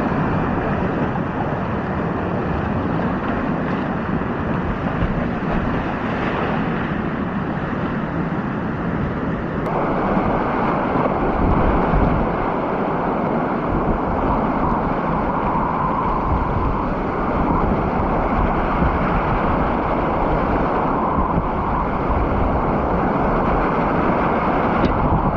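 Whitewater rapids rushing steadily, a loud continuous roar of water with wind on the microphone.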